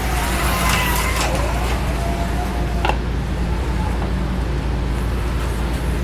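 Motors of Life-Like HO slot cars whining as they run past, the pitch sliding down and then holding, over a steady low hum. A single sharp click about three seconds in.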